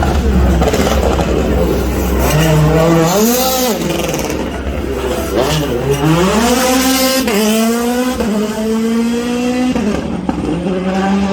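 Rally car engine revving hard as the car launches and accelerates away. The pitch climbs and drops back sharply at each gear change, after a deep rumble at the start.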